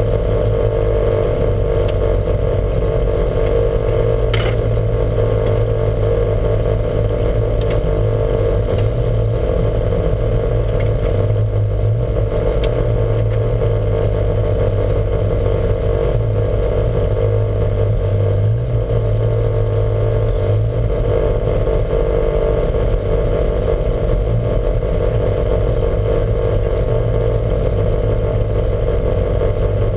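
Lancia Montecarlo's twin-cam four-cylinder engine running steadily at a fairly constant pitch, without any clear revving up or down. The owner reports a huge misfire in this engine.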